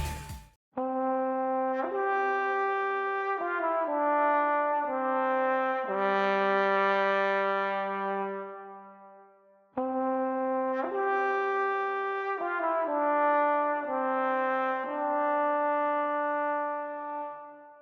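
Brass instrumental music: a slow melody of sustained notes in two phrases, each ending on a long held note that fades away.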